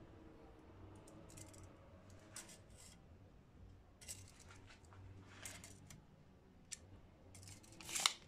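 Faint scattered clicks and rustles of small hard objects being handled, over a low steady hum, with a louder scrape near the end.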